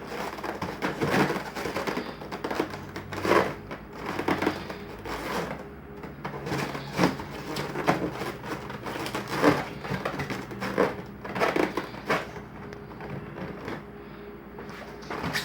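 Irregular crunching and scraping handling noises with a few sharper knocks, over a faint steady low hum.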